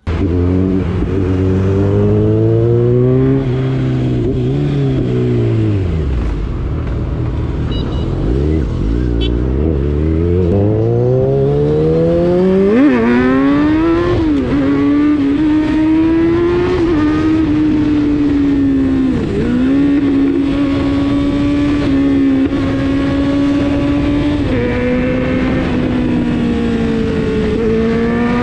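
Kawasaki Z900's inline-four engine under way: the revs sag low, then climb steadily and drop sharply twice about halfway through as it shifts up, then hold a fairly steady speed with brief dips, over a hiss of wind.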